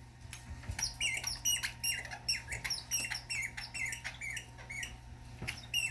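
A dog's squeaky toy squeaking over and over as it is chewed: short high squeaks that bend in pitch, about two to three a second.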